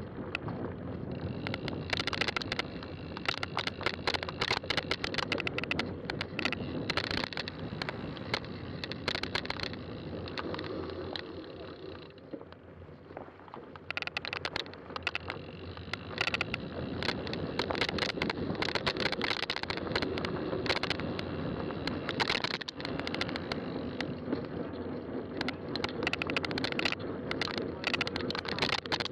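Fat-tire bicycle riding over a rough trail: steady tyre and riding noise, with frequent clicks and rattles from the bike over bumps. It eases off for a couple of seconds about halfway through.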